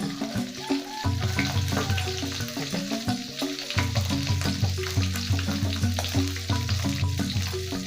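Hot cooking oil sizzling steadily as birds fry in a pan, with background music playing.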